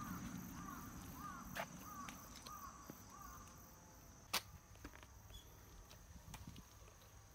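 A bird calls in a quick run of about six short notes, roughly two a second, over faint rubbing of a cloth on car paint. A single sharp click about four seconds in is the loudest sound.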